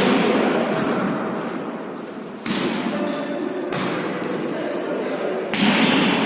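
A ball being struck and bouncing on a hall court: four sharp hits a second or two apart, each ringing on in the hall's echo, with short high squeaks between them.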